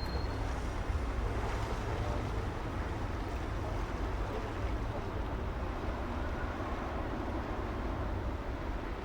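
Steady city traffic ambience: a continuous low rumble with an even hiss, no single vehicle standing out.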